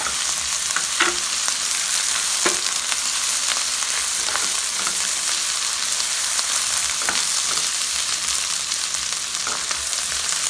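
Sliced onions, garlic and crushed ginger sizzling steadily in hot oil in a wok, stirred with a silicone spatula that scrapes and taps the pan now and then.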